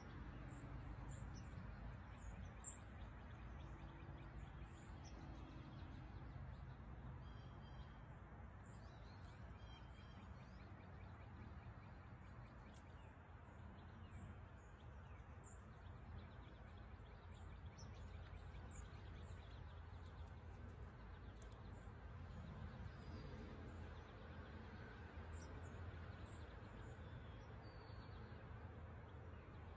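Faint outdoor ambience with scattered short, high bird chirps throughout, over a low steady rumble.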